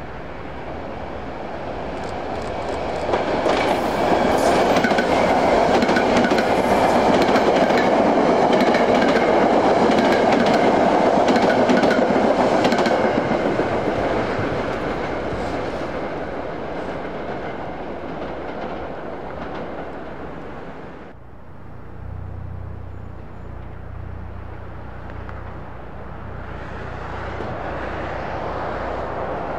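A passing train: wheels clatter over rail joints, building as it nears, loudest for several seconds, then fading away. About two-thirds of the way in, the sound changes abruptly to a steady low hum, and another train's rumble builds near the end.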